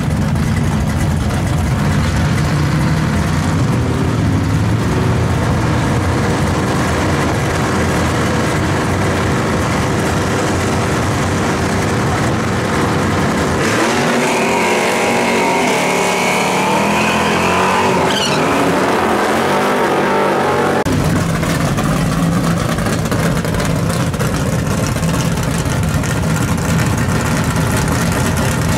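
First-generation Chevrolet Camaro's engine running steadily in the drag strip staging lanes. After a cut about 14 seconds in, a Plymouth Duster launches hard, wheels-up, its engine revving up and climbing for about seven seconds. After another cut about 21 seconds in, the Duster's engine runs steadily behind the starting line.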